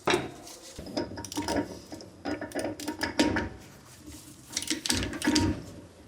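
Hand tools and a socket working on the bolts of a Suzuki Samurai's front steering knuckle: irregular metal clinks and knocks, busiest in the middle and again near the end.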